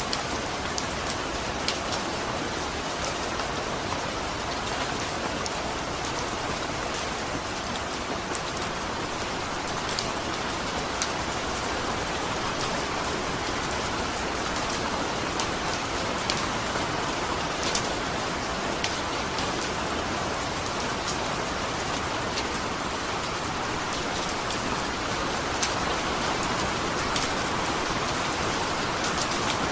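Steady rain falling on a surface, with scattered individual drops ticking through a constant hiss.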